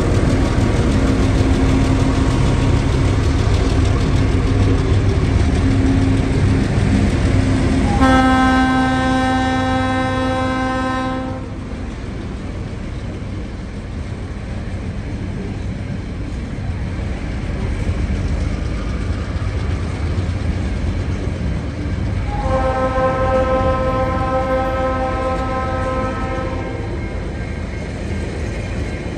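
Diesel freight locomotives rumbling past at low speed, then the lower, steady rolling noise of container and log wagons going by. A train horn sounds twice, each blast about three seconds long: once about a third of the way in and again near the end.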